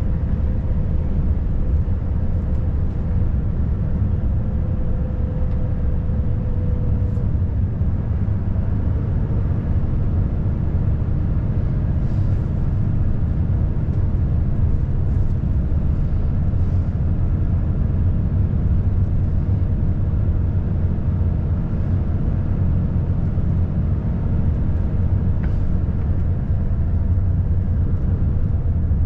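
Volvo FH540 truck's 13-litre six-cylinder diesel running steadily under way, with a low drone and road noise. A faint steady whine fades out about seven seconds in.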